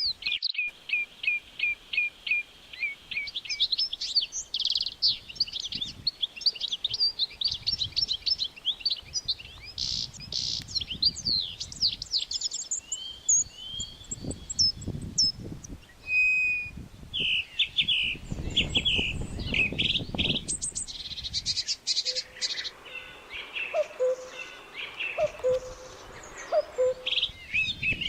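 Small birds chirping and calling busily, with runs of quick repeated chirps and short whistles throughout. A low rumble comes in about two-thirds of the way through.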